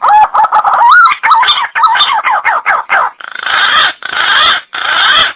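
Green pigeon (punai) call: a run of quick, wavering whistled notes, then three harsh, noisy bursts in the last two seconds.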